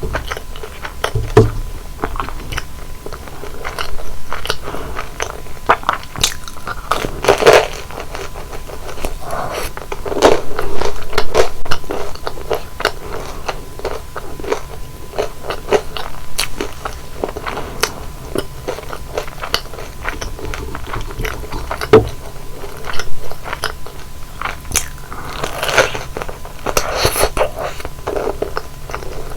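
Close-miked eating sounds: crisp deep-fried flower buns being bitten and chewed, with many sharp crunches and crackles and wetter chewing in between.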